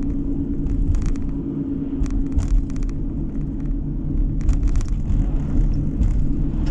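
A car driving on the road, heard from inside the cabin: steady low road and engine rumble with a constant hum and scattered light ticks and rattles.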